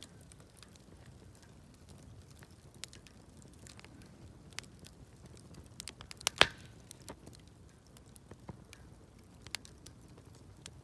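Wood campfire crackling: scattered small ticks and pops over a faint low hiss of burning, with one loud sharp pop a little past halfway.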